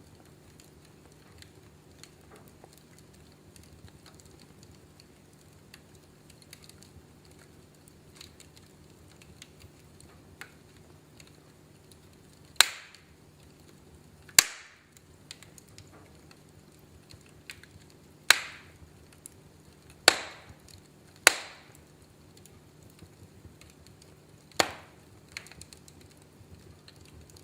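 Wood fire crackling in a fireplace: faint small crackles throughout, and in the second half six loud, sharp pops a second or more apart, each dying away quickly.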